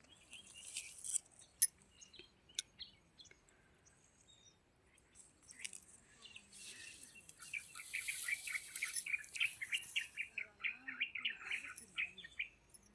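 Birds chirping, with a fast run of short high chirps through the second half. A few faint clicks and rustles come in the first few seconds.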